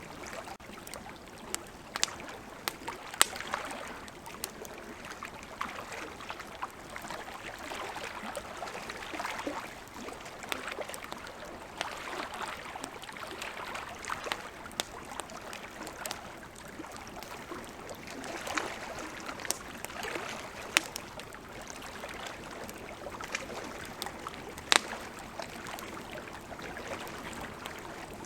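Campfire burning with irregular sharp pops and crackles, over the steady rush of flowing river water.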